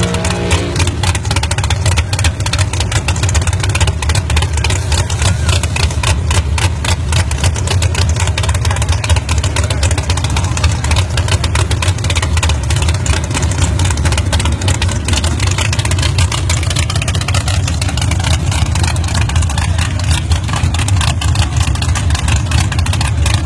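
Drag-race car's engine idling loudly and steadily, a fast pulsing exhaust note heard up close.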